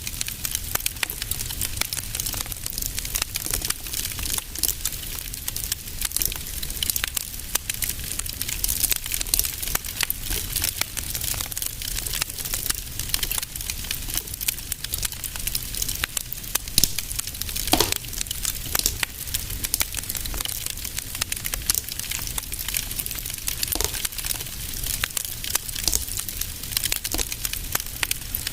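Wood fire in a fireplace crackling steadily, a dense run of small snaps and pops over a low rumble of the flames, with a few slightly louder pops about two-thirds of the way through.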